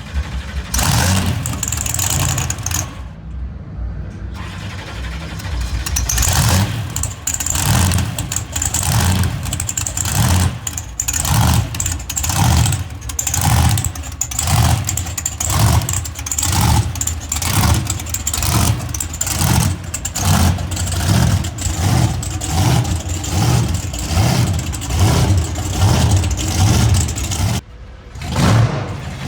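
Monster truck engine revving in quick repeated throttle blips, about one a second.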